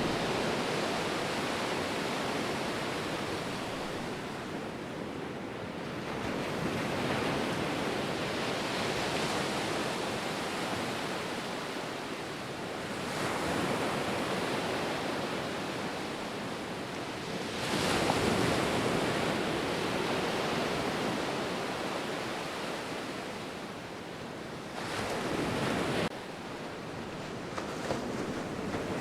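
Ocean waves breaking on a shore, a steady wash of surf that swells and ebbs, with louder breakers every few seconds and an abrupt drop in level near the end.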